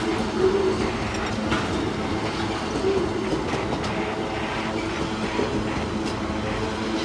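Freight train wagons rolling past at close range: a steady rumble of wheels on rail with scattered clicks as the wheels cross rail joints.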